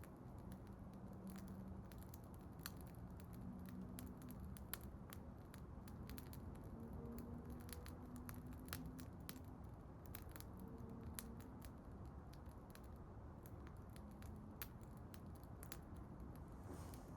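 Faint crackling of a wood bonfire: irregular sharp pops and snaps, several a second, over a low steady rush of the burning.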